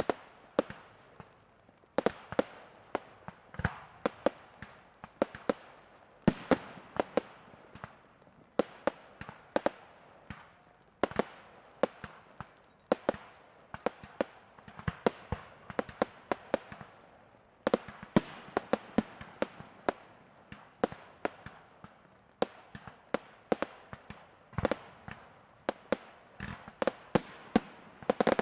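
Fireworks display: aerial shells bursting in quick, irregular succession, several bangs a second, each with a short echoing tail.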